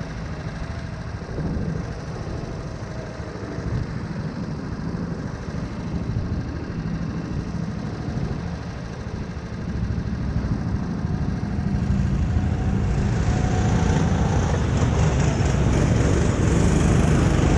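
A small 9 hp engine running steadily, growing louder and brighter from about two-thirds of the way in.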